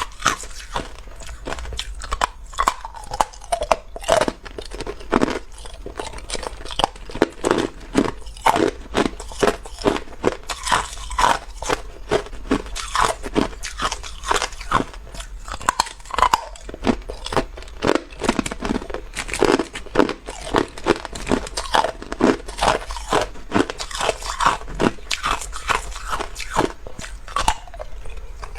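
Hard ice cubes being bitten and chewed close to the microphone: a steady run of sharp, brittle crunches, a few each second.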